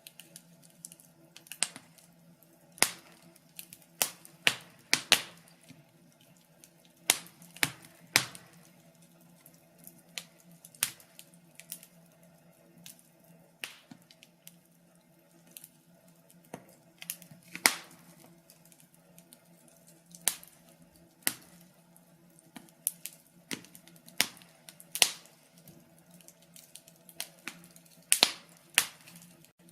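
Fire crackling: irregular sharp pops and snaps, sometimes several close together, some much louder than others, over a faint steady low hum.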